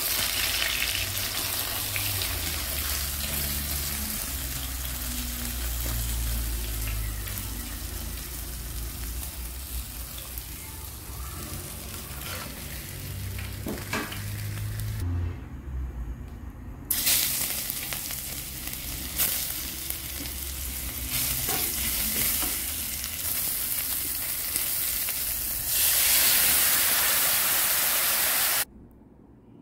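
Whole red snapper deep-frying in a pan of hot oil, a steady sizzle. After a short break about halfway in, garlic and spring onion sizzle in soy sauce, louder near the end, then the sound cuts off suddenly.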